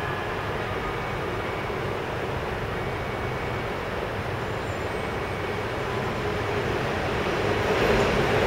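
Low, steady rumble of an approaching Keikyu electric train at the station, growing louder over the last second or two as the train nears to pass through at speed.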